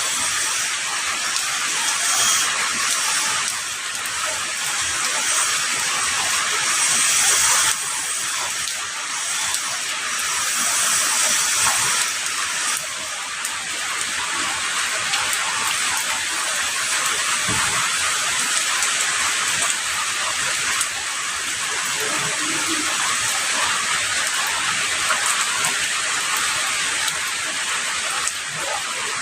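Heavy rain falling as a dense, steady hiss, swelling and easing slightly in the first half.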